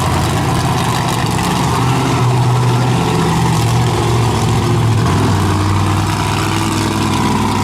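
Monster truck engine running loud, its low drone climbing and dropping in pitch a few times as the throttle is worked.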